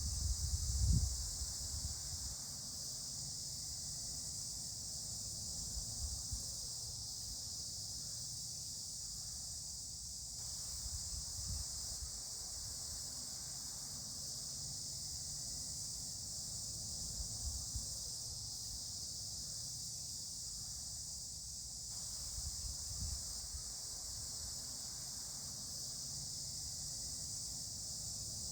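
Steady, high-pitched chorus of insects, unbroken throughout, with an uneven low rumble underneath.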